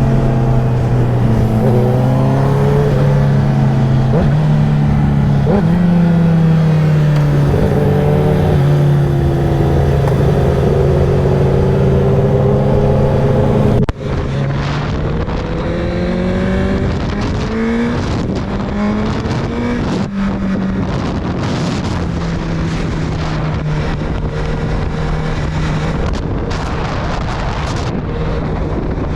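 Honda CBR1000RR-R inline-four sportbike engine and exhaust under way, its pitch repeatedly climbing and then dropping back as it accelerates and shifts through the gears. About halfway through, the sound breaks off for an instant and changes character.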